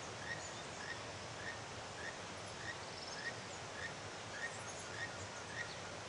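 A bird repeating a short, high chirp at an even pace, roughly every 0.6 seconds, over a faint steady hiss of outdoor ambience.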